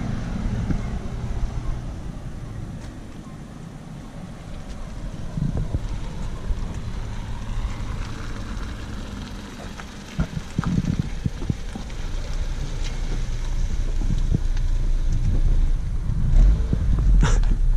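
Car engine and road noise, quieter through the middle and building up over the last several seconds, with a few low knocks about ten seconds in.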